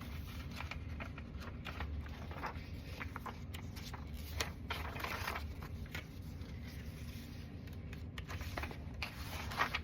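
Paper rustling, with soft scrapes and small clicks as the pages of an old ledger are turned and handled, over a steady low hum.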